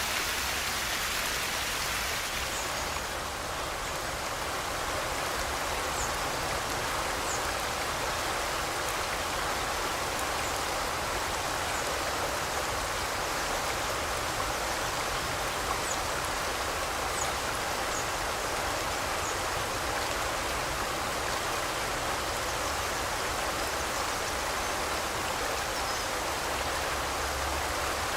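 Forest river flowing steadily, an even rushing of water, with a few faint, short, high bird chirps scattered over it.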